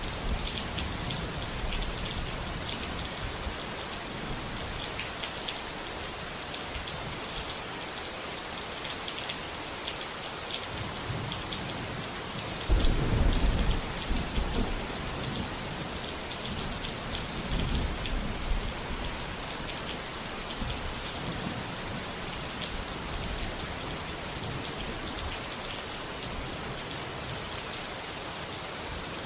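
Steady rain falling and pattering on surfaces, with a low rumble of thunder about halfway through that lasts a second or two and a fainter rumble a few seconds later.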